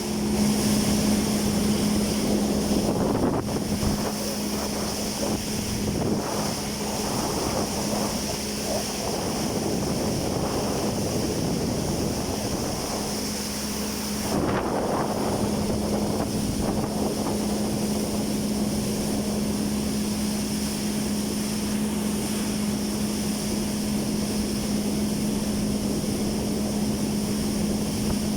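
Jet ski engine running at a steady pitch, with wind rushing over the microphone.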